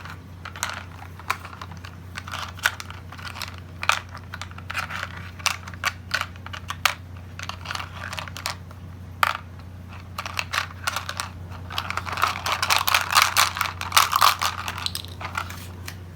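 Plastic toy building blocks and toy truck clicking and knocking together in irregular taps, building to a dense rattling clatter near the end.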